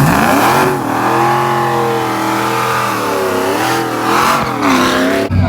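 A drag-racing engine revving up hard off the line, then pulling at high revs, with two brief dips in pitch as it shifts gears. It cuts off abruptly near the end.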